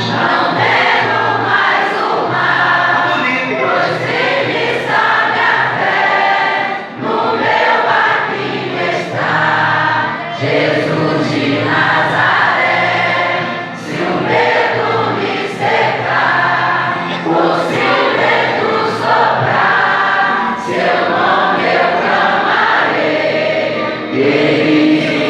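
A church congregation singing a worship song together in chorus, phrase after phrase, with short breaks between lines.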